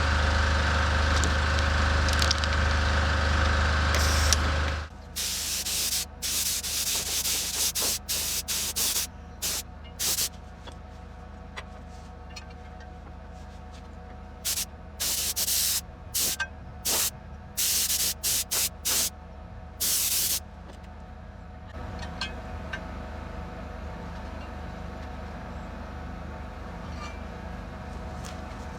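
A loud steady machine hum stops about five seconds in. Then a compressed-air paint spray gun hisses in many short bursts, a fraction of a second each, as its trigger is pulled again and again. A quieter steady hum sets in near the end.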